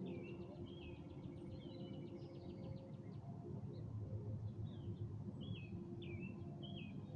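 Songbirds calling: a rapid trill in the first few seconds and repeated short chirped notes, over a steady low hum.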